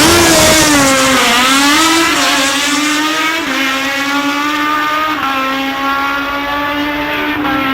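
Racing motorcycle engine held at high revs, a loud high-pitched note. It dips and climbs back in the first couple of seconds, then holds nearly steady.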